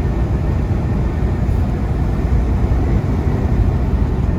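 Steady low rumble inside a semi truck's cab while driving: the diesel engine's drone and the road noise.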